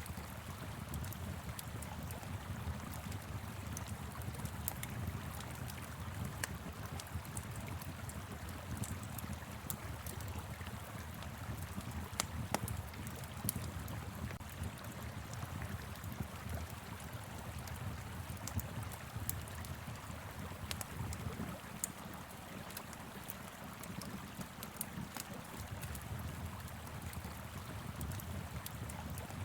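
Steady rush of a flowing river, with a fire crackling over it in scattered sharp pops and snaps.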